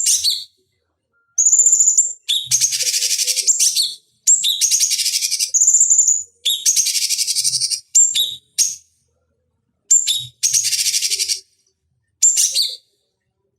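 Cucak cungkok singing in loud, repeated phrases. Each phrase is a high clear whistle that runs into a dense, fast, buzzy chatter lasting about a second, with short silent gaps between phrases.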